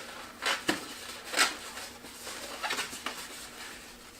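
Inflated latex twisty balloon being folded and twisted by hand, rubbing in several short, sharp strokes.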